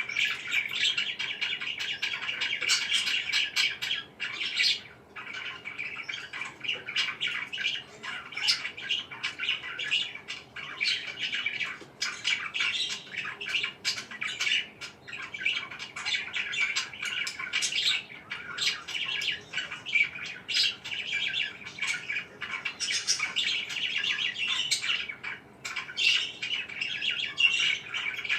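Pet parakeets chirping in a dense, steady stream of short calls.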